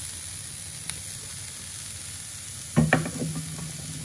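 Sliced vegetables sizzling in hot peanut oil in a grill pan. A wooden spatula knocks and scrapes against the pan a few times about three seconds in.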